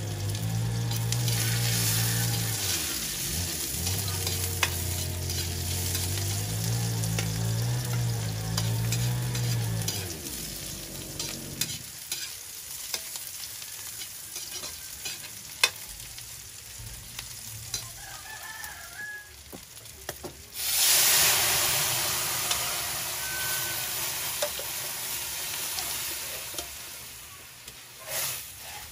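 Onion and garlic sizzling and being stirred in a hot steel wok over a wood fire. About two-thirds through, liquid mung beans are poured in and set off a sudden loud hiss that slowly fades.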